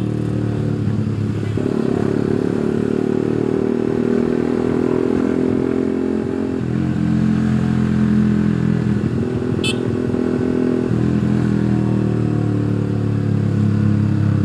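Suzuki GSX150R's single-cylinder engine running at low revs in slow traffic, its note shifting a few times as the throttle is eased on and off. A brief high click sounds about two-thirds of the way through.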